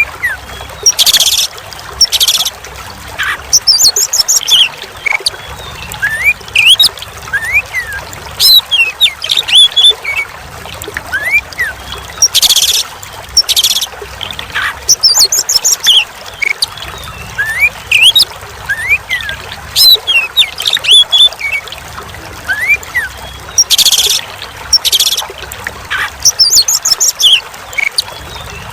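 Oriental magpie-robin (kacer) song: quick rising whistled notes, rapid trills and harsh chattering calls over a steady trickle of running water. The same sequence repeats about every eleven seconds, a looped tutor recording.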